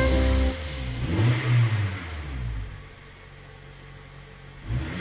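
A song's final held chord stops about half a second in. Then an animated bus engine sound effect revs up, rising and falling in pitch, settles to a lower steady hum, and revs again near the end.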